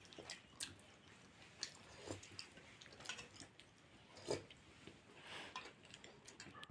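Faint chewing and mouth smacks of a person eating chicken momos, with scattered soft clicks every second or so.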